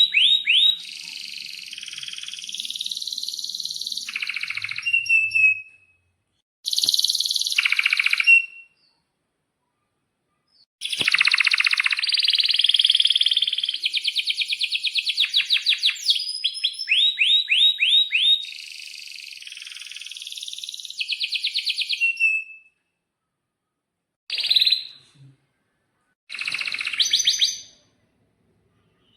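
Domestic canary singing in separate phrases of fast trills and long rolls, with quick rising chirps, broken by short silences; the longest phrase lasts about twelve seconds in the middle, and two short bursts come near the end.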